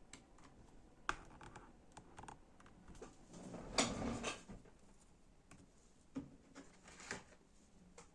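Scattered clicks and taps from handling a laptop, with a longer rustling noise about four seconds in.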